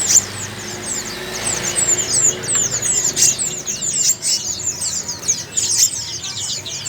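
Many small caged birds chirping at once, a dense overlapping stream of short, high, downward-sweeping chirps.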